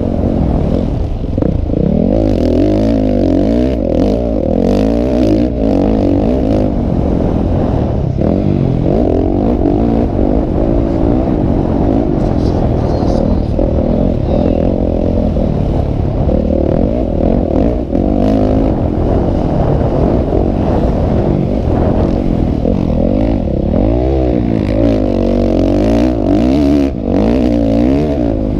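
Several motocross bikes' engines revving hard, their pitches rising and falling and overlapping as the riders accelerate and shift.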